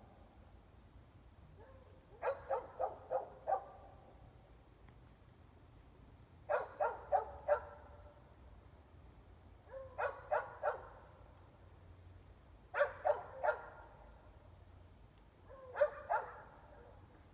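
Dogs about 400 feet away, most of them shut indoors, barking in volleys of four or five quick barks, a volley every three seconds or so, five volleys in all.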